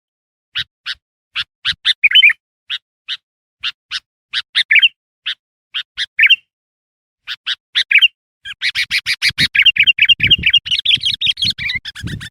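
Sooty-headed bulbul (kutilang) calling: a string of short, sharp chirps spaced a fraction of a second apart. About two-thirds of the way through they run together into fast, continuous chattering. This is the busy, excited call used as a lure to bring in wild bulbuls.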